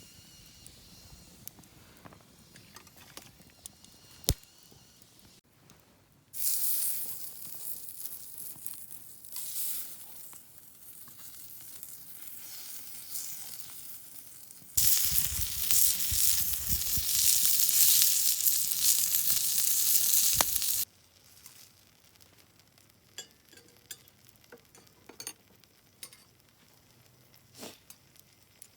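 Food sizzling on a small hot iron griddle over a campfire. The hiss starts suddenly about six seconds in and eases off, then comes back louder for about six seconds and cuts off abruptly. Before and after there is only faint crackling and scattered ticks.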